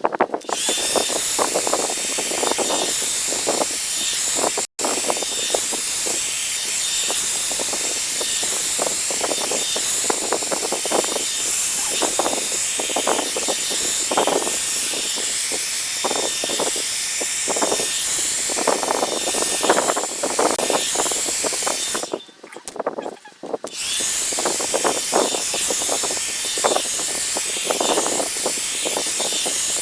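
2-in-1 hot-air brush (hair dryer and styling brush) blowing steadily with a thin motor whine, the brush rustling as it is drawn through hair. The air stops for about a second and a half about three-quarters of the way through, then starts again.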